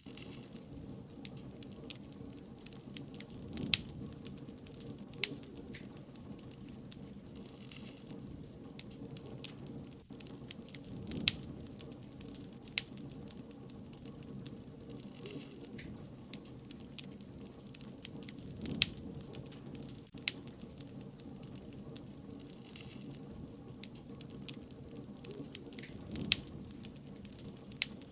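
Wood fire (bonfire) crackling, with sharp pops every second or so over a steady low rush of burning.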